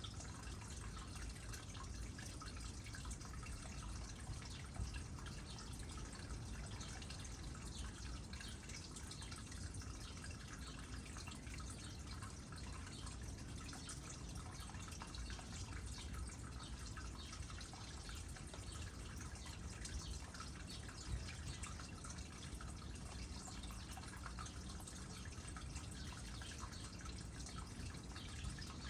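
Water trickling steadily into a small pond, with a constant patter of fine drips.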